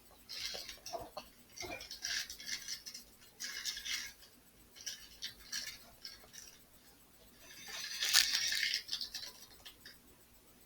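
Intermittent scratchy rustling and scraping from a new phone and its packaging being handled, in short bursts with pauses between, the loudest about eight seconds in.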